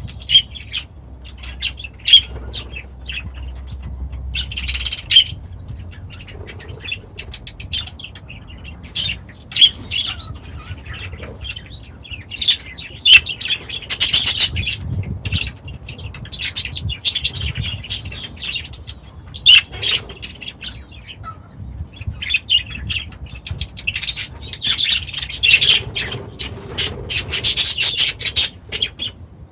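Small pet parrots in an aviary calling over each other: quick chirps and harsh squawks, with louder spells about halfway through and again near the end.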